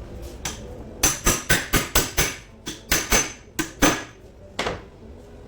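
About a dozen quick hammer blows on metal in short runs, some with a faint metallic ring, as a gearbox is worked on during its overhaul.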